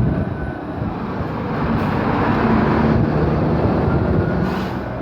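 Steady car engine and road noise heard from inside the car, with a low engine hum under it.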